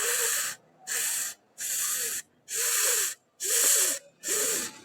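A person repeatedly saying the English /f/ sound, the sound of the letter F: six short breathy "fff" hisses, each about half a second long, evenly spaced.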